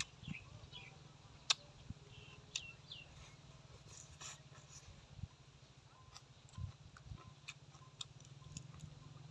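Faint chewing with scattered sharp mouth clicks and crunches, a person eating with an open mouth. A few faint chirps sound in the background.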